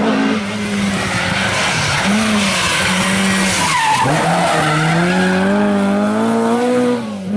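Historic rally car's engine running hard at high revs as the car goes past. The engine note drops sharply about four seconds in, then climbs steadily as the car accelerates.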